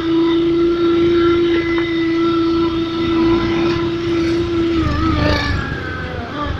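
Electronic sound booster on a Honda New Megapro motorcycle, playing a synthetic racing-engine note through its speaker. The note holds one steady pitch, then wavers and dips near the end.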